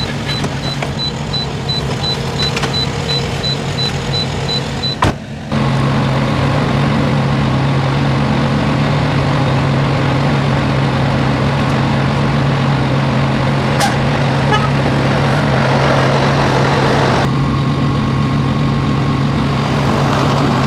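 Semi truck's diesel engine running with a steady low hum. There is a sharp click about five seconds in, after which the hum is louder.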